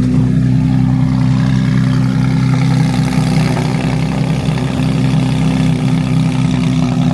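A car engine running loudly at steady revs, a constant drone that neither rises nor falls.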